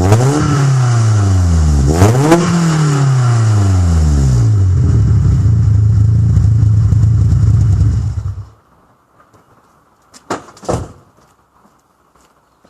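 BMW E30 318is four-cylinder engine, through a stock exhaust with a cheap stainless straight-through back box, blipped twice near the start, each rev falling back to a steady idle, then stopping about eight seconds in. Two faint knocks follow a couple of seconds later.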